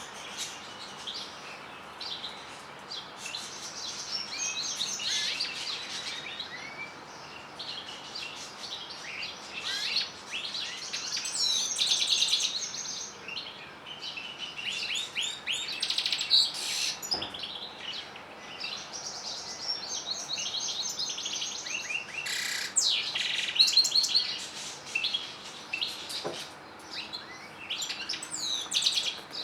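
Domestic canaries and European goldfinches singing: a continuous run of high twittering song with fast trills and chirps, swelling louder about a third of the way in and again near the end.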